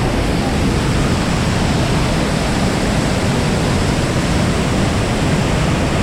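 Waterfall in full flow after heavy rainfall: a loud, steady rush of falling water.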